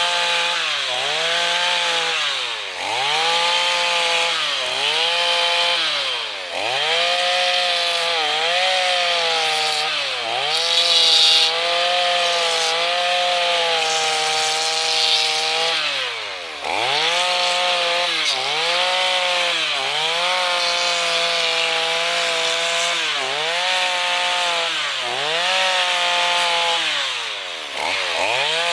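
Chainsaw running a power-gouge notcher carving attachment, cutting into wood. The engine pitch dips and recovers again and again, every second or two, as the cutter bites under load and comes free.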